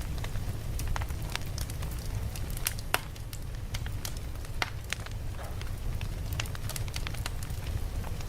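Campfire crackling: many short, sharp pops at irregular intervals over a steady low rumble of the burning fire, with one louder pop about three seconds in.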